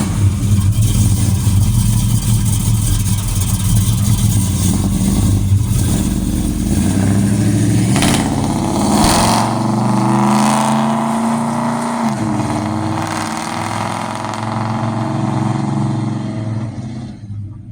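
Chrysler 340 small-block V8 exhaust through headers and two-chamber Flowmaster mufflers: a deep, loud rumble while driving. Partway through, the engine note rises and falls as the revs change, and the sound dies away near the end.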